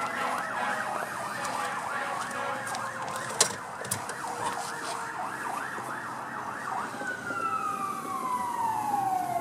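An emergency vehicle siren in yelp mode, cycling quickly up and down in pitch about three times a second. About seven seconds in it switches to a slow wail that falls steadily in pitch. One sharp knock is heard about three and a half seconds in.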